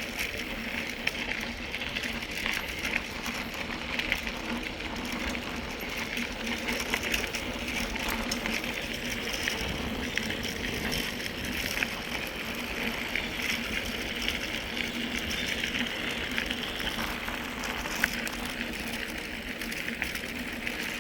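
Mountain bike coasting: the rear hub's freewheel ticking rapidly and steadily, over the noise of the tyres rolling on the trail.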